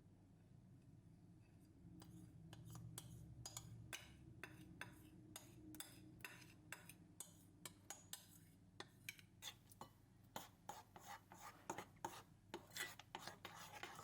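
Quiet scraping and clicking of kitchen utensils against dishes, irregular strokes that start about two seconds in and grow busier and louder toward the end.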